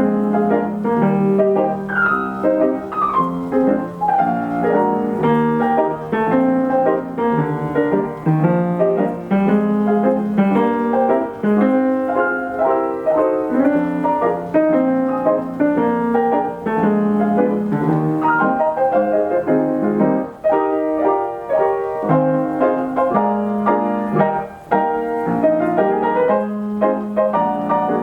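Steinway piano playing itself through its Ampico B reproducing mechanism from a paper roll: a 1930s popular-song arrangement with a busy melody over a steady chordal accompaniment.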